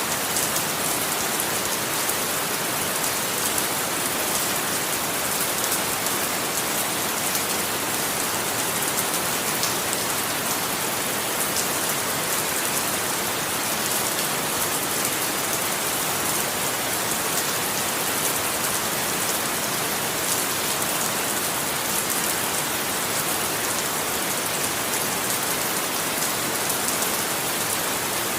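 Steady rain falling and pattering on a surface, with a dense crackle of individual drops and no thunder.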